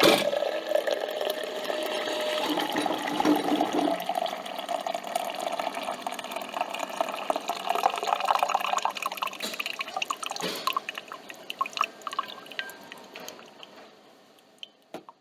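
Coffee machine dispensing coffee into a cup: a steady pump hum for the first few seconds, then the liquid trickles and drips, thinning and dying away near the end.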